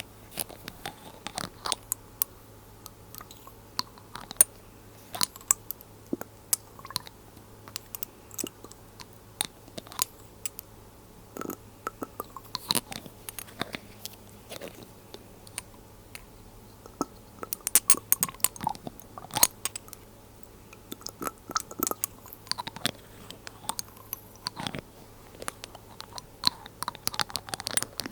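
Glass dropper bottles handled close to the microphone: dense, irregular small clicks and taps of glass, a few of them with a brief ring.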